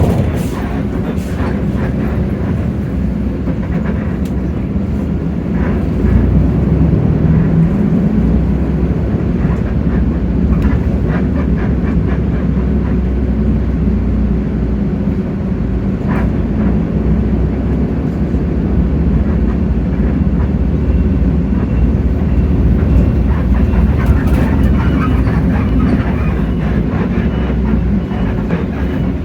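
Hino J08E-VN inline-six diesel of a Hino RK8JRVA-KJF city bus running as the bus drives. A steady low rumble with light rattles and clicks grows louder about six seconds in and holds there.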